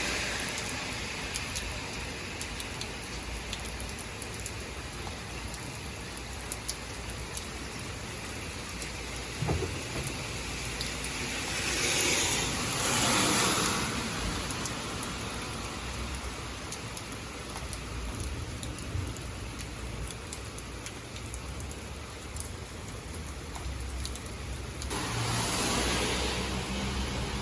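Steady rain with scattered drops hitting close by. Cars pass on the wet road about twelve seconds in and again near the end, their tyres hissing.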